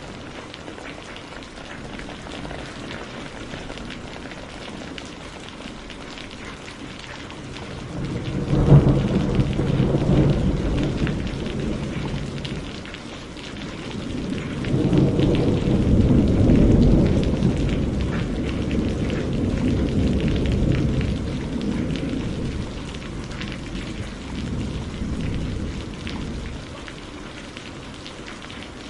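Steady rain falling, with two rolls of thunder. The first starts suddenly about eight seconds in and dies away over a few seconds. The second, a longer low rumble, swells from about halfway through and fades out near the end.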